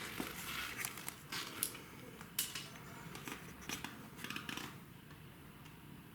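Irregular clicks, scrapes and rustles of hands working with small hard objects, busiest through the first four seconds and thinning out near the end.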